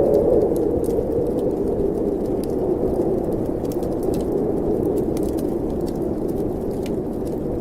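Snowstorm wind blowing steadily under a crackling fireplace fire, with small sharp pops scattered throughout.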